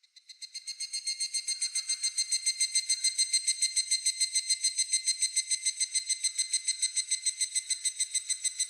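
Higurashi (evening cicada) calling: a fast run of high, ringing pulses, about eight a second, that swells in over the first two seconds and then holds steady.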